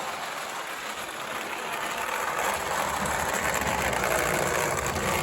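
O gauge model locomotive's electric motor and wheels running on the track under heavy load, with its driving wheels slipping as it strains to pull a long train. A steady mechanical whirr and rumble that grows gradually louder.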